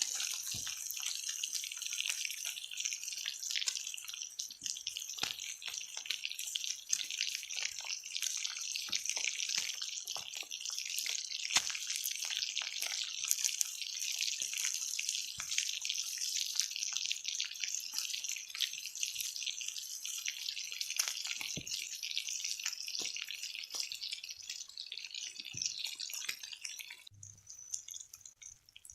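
Rain falling, a steady hiss full of separate drops striking; it drops away abruptly near the end.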